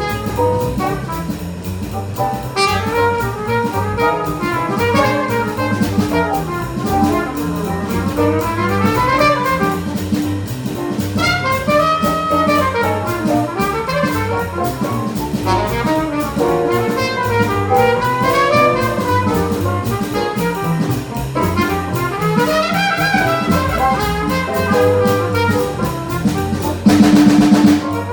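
Small jazz combo of alto saxophone, trumpet, piano, bass and drum kit playing a bebop instrumental live, with quick running horn lines over the steady pulse of a ride cymbal. A loud held horn note sounds near the end.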